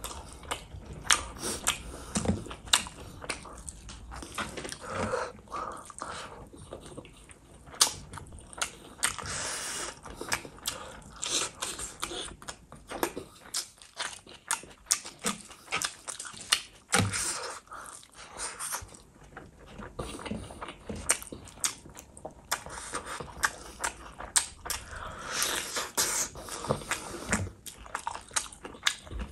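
Chewing and wet lip-smacking of a person eating mutton curry and rice by hand, an irregular stream of soft clicks and squelches, with fingers being licked.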